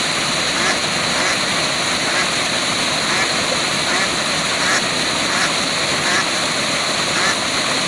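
Waterfall rushing steadily, with ducks quacking repeatedly over it, a call every half second to a second.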